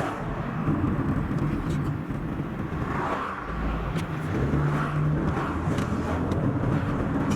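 Car driving on a highway: steady road and engine noise, sped up to double speed.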